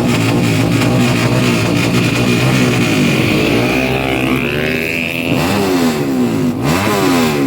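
Honda Karisma motorcycle engine revving, its pitch rising and falling several times, with the swings quicker in the second half.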